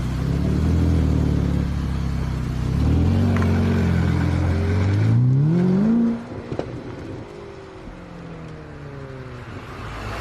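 Ferrari F8 Tributo's twin-turbo V8 pulling hard, its note climbing steeply to a peak about six seconds in, then cutting off sharply. A quieter engine note follows, falling slowly in pitch.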